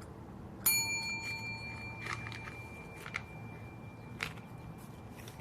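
A single ringing ding, like a small struck bell, starts sharply under a second in and fades slowly. A few light clicks or knocks follow over the next few seconds.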